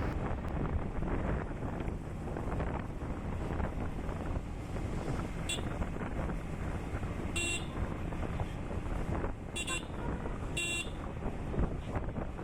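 Yamaha MT-15's 155 cc single-cylinder engine running at riding speed under heavy wind noise on the microphone. A few short horn toots come in the second half.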